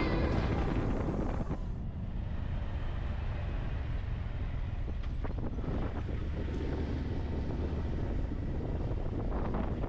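Steady low rumble of the waterfall's rushing water, mixed with wind buffeting the microphone. Music fades out in the first second or two.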